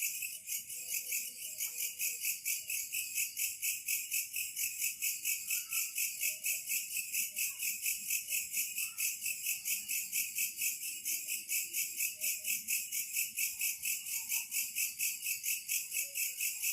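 Insects chirping in a steady, fast, high-pitched pulse, about five chirps a second, with faint scattered low calls underneath.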